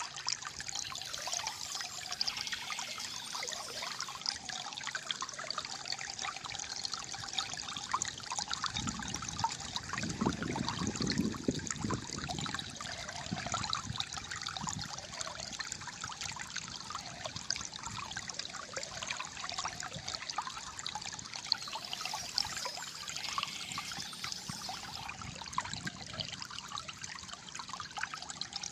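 Flowing water trickling and gurgling steadily, with a deeper gurgle swelling for a few seconds about ten seconds in.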